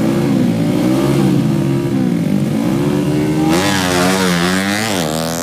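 Drag-racing motorcycle engines revving in repeated blips, the pitch rising and falling. About three and a half seconds in a louder, higher-pitched engine joins, sweeping up and down, and it falls away at the end.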